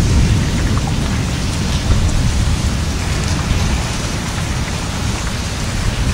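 Heavy thunderstorm rain falling steadily, a dense hiss of drops with a continuous low rumble underneath.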